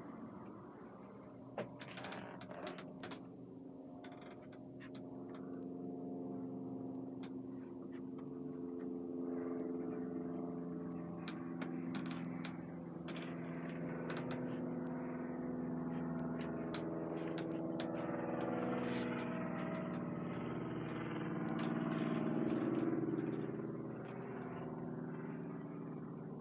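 An engine running, its pitch drifting slowly up and down, with scattered clicks and knocks over it.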